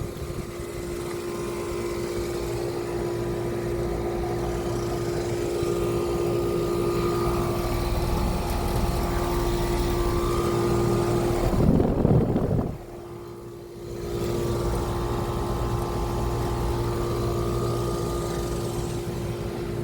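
Outdoor air-conditioner condensing unit running steadily, a strong compressor hum under the fan, sounding like it is working hard. About twelve seconds in it swells briefly, then drops away sharply for a second or so before the steady hum comes back.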